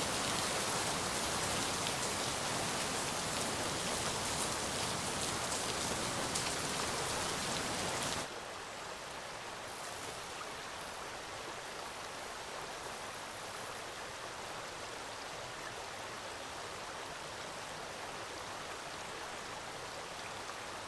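Steady rain, a dense even hiss. About eight seconds in it cuts abruptly to a quieter, thinner hiss with less low rumble, which then holds steady.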